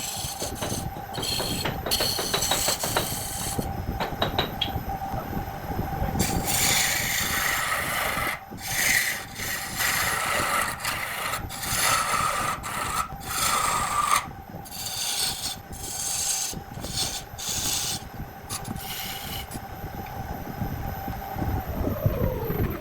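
Wood lathe running with a steady motor whine while wood on the spinning workpiece is scraped in repeated rasping passes of a second or two each. Near the end the lathe is switched off and the whine drops in pitch as it spins down.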